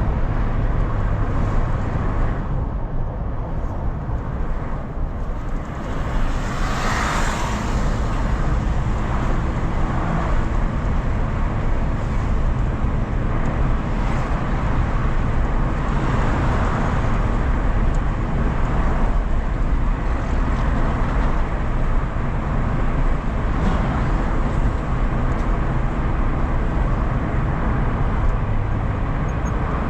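Car interior on the move: a steady low rumble of engine and tyre road noise, with a louder hiss swelling briefly about seven seconds in and a few smaller swells later, as of passing traffic.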